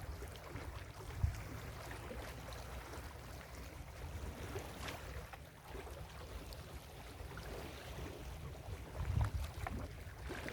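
Ocean surf washing onto a beach, an even hiss of water, with wind buffeting the microphone in low gusty rumbles that swell about a second in and again near the end.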